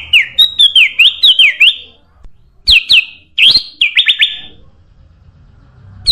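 Kutilang emas (golden bulbul) singing a fast run of clear chirps, each sweeping down in pitch. The song comes in two bursts separated by short pauses, then goes quiet for nearly two seconds before starting again at the end.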